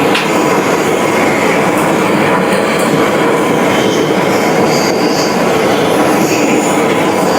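Machinery running steadily and loudly, a dense mechanical noise with brief high squeals now and then.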